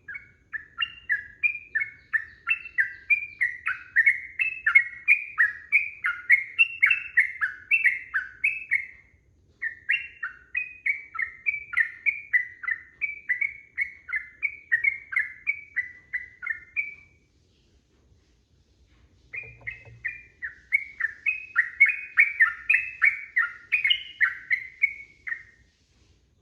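Yellow-vented bulbul (trucukan) singing a long, fast chattering series of short repeated notes, in three long runs with brief pauses between them.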